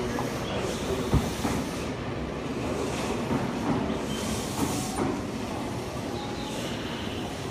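Semboku Rapid Railway 5000 series electric train running slowly into the station platform as it arrives, its cars rolling past with steady rail noise. A single sharp knock about a second in.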